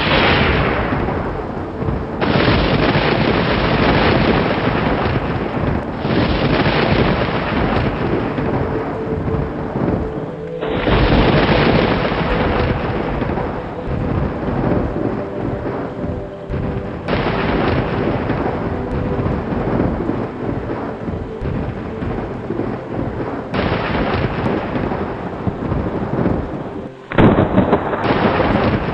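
Thunder rumbling over heavy rain, loud throughout. The storm sound cuts off sharply and starts again several times, as where recordings are spliced together.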